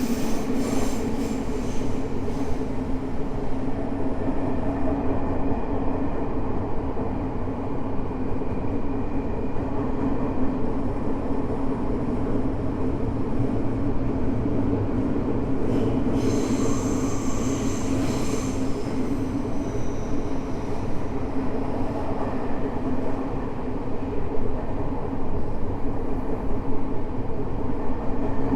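Tokyo Metro 05 series subway train (Mitsubishi IGBT inverter type) running at speed, heard inside the car: a steady rumble and hum of wheels and motors. A little past the middle a high wheel squeal rings out for about three seconds.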